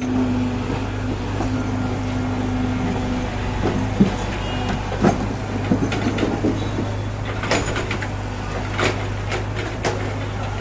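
Heavy construction machine's diesel engine running steadily, with scattered clanks and knocks through the second half.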